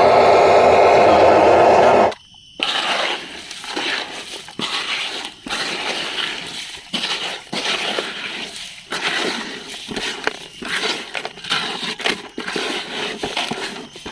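A loud steady mechanical hum cuts off abruptly about two seconds in. After it come irregular clicks, knocks and crackles of plastic toy vehicles being handled.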